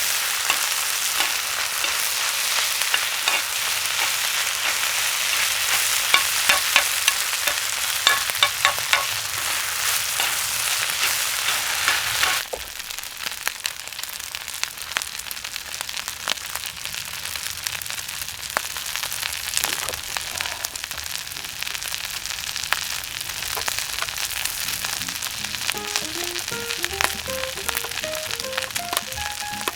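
Food sizzling and frying on a hot iron griddle, with many sharp pops. About twelve seconds in, the sound drops abruptly to a quieter, steady sizzle. A soft melody comes in near the end.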